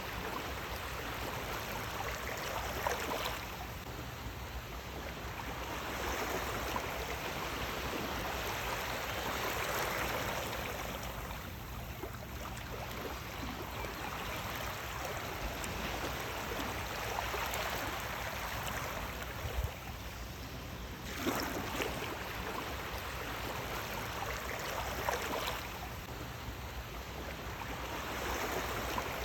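Sea waves washing onto a shore: a continuous rush of water that swells and fades every several seconds, with brief splashes as waves break.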